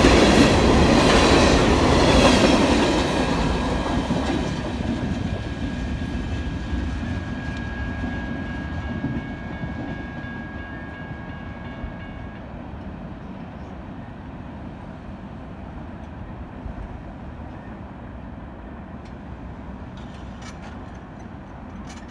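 The last cars of a loaded coal train roll past with a clattering rumble that fades steadily as the train moves away. A thin, steady high squeal from the wheels carries with it and stops about twelve seconds in.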